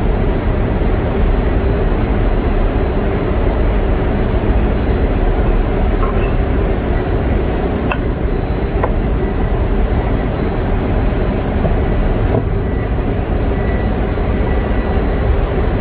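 Steady loud drone of running generator engine machinery, with a few light clicks about six to nine seconds in.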